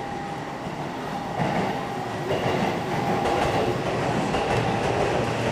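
Blue-striped JR Keihin-Tohoku line electric commuter train running into the platform, its wheels clattering on the rails. It gets louder about a second and a half in as it comes alongside.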